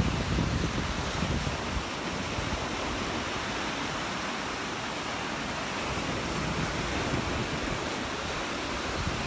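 Surf washing onto a sandy beach as a steady rush. Wind buffets the phone's microphone with low rumbles in the first couple of seconds.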